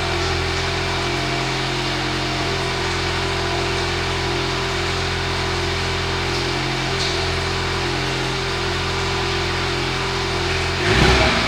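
Volkswagen Golf R's turbocharged 2.0-litre four-cylinder idling steadily through a stock exhaust with the resonator deleted, shortly after a cold start. Near the end there is a brief louder swell.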